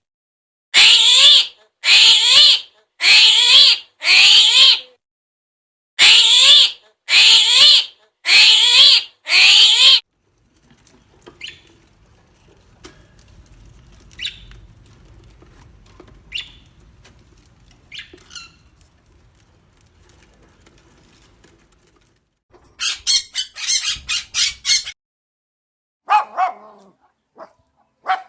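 Animal calls: a run of loud calls repeated about once a second, rising in pitch, then a quieter stretch with faint scattered sounds, then a quick series of short chirping calls near the end.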